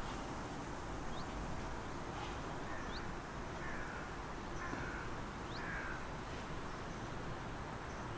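Birds calling over a steady outdoor background hiss and rumble. There are short sharp rising chirps every couple of seconds, and a few short harsh falling calls in the middle.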